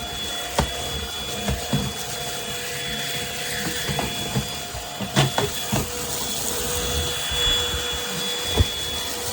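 PRETTYCARELIFE cordless stick vacuum running steadily, a motor whine with a constant hum, with scattered knocks and clicks as the floor head is pushed around.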